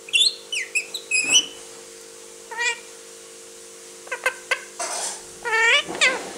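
Indian ring-necked parakeet (rose-ringed parakeet) calling: a quick run of sharp, high chirps in the first second and a half, then several longer calls that rise and fall in pitch, about a second apart near the end.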